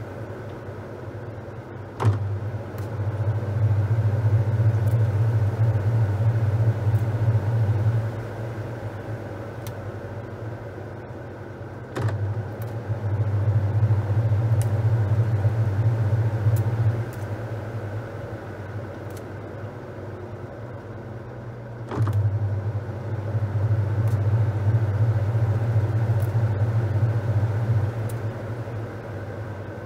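Top-loading washing machine washing a load of towels: its drive motor hums in stretches of about six seconds, three times, each starting with a click, with quieter churning in the pauses between.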